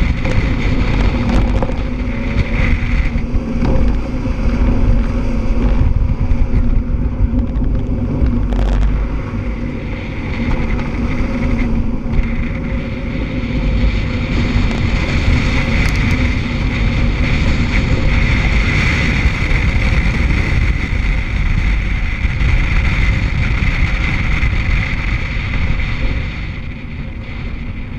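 2006 Scion tC's four-cylinder engine driven hard, its note swelling and easing as the car accelerates and slows, with heavy wind buffeting on a microphone mounted outside the driver's door. The sound drops away near the end.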